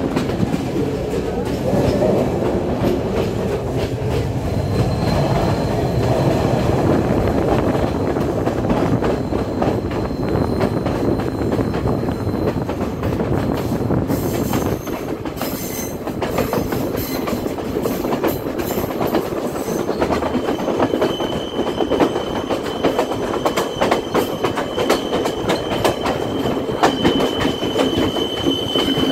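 Passenger train running through hill country, heard from an open carriage window: a steady rumble and rattle of the wheels on the rails with clicking from the rail joints. About two-thirds of the way through, a high, steady wheel squeal sets in as the coaches round a curve.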